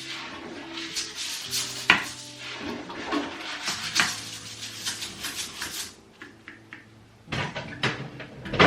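Dishes and kitchenware clattering and clinking as they are handled and set down, with sharp knocks about two seconds in and near the end, and a quieter pause shortly before the last clatters.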